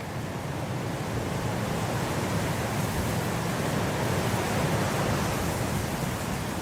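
Blizzard wind blowing as a steady rushing noise, swelling into a stronger gust around the middle and easing off near the end.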